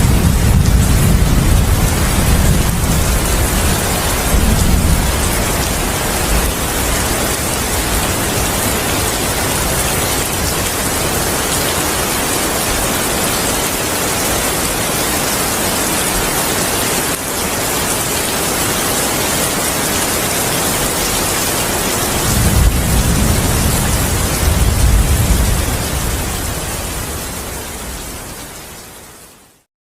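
Heavy rain falling as a steady hiss, with low rolling thunder rumbling at the start and again about three-quarters of the way through. The whole storm fades out at the very end.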